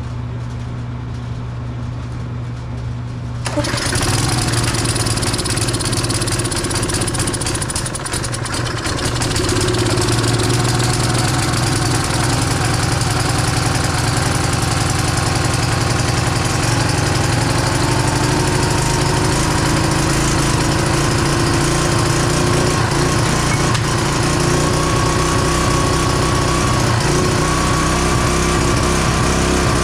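Tecumseh small engine on a Craftsman pressure washer running low and weak, then picking up sharply about three and a half seconds in. It gains again around ten seconds and settles into a steady run, its speed creeping slightly upward. The weak running fits what the owner takes for the engine running short of fuel after a carburetor swap.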